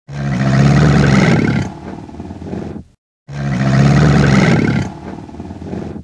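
A loud roar sound effect, played twice as identical copies of about three seconds each, each cut off into dead silence.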